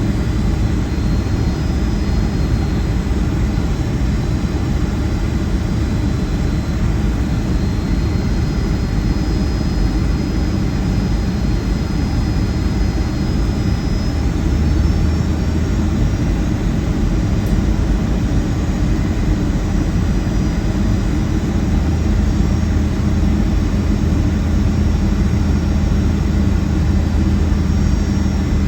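Steady cabin roar of a Boeing 757-200 jet airliner, airflow and engine noise, heard from a forward first-class seat. A faint high engine whine steps up in pitch about halfway through and again near the end, with the low rumble growing slightly stronger.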